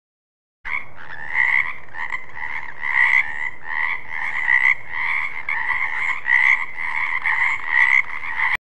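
Frogs croaking in a steady run of repeated calls, a little more than one a second, starting about a second in and cutting off abruptly near the end.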